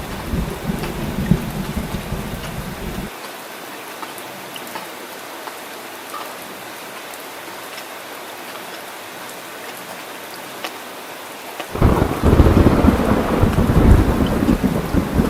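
Steady rain falling, with thunder rumbling that stops abruptly about three seconds in. A louder roll of thunder comes in suddenly near the end.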